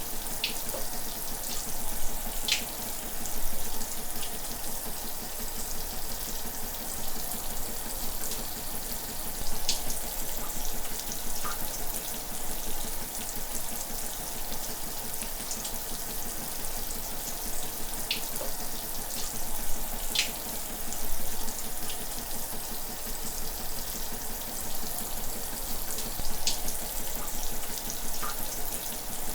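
Shower running: a steady hiss of water spray, with a sharper splash now and then.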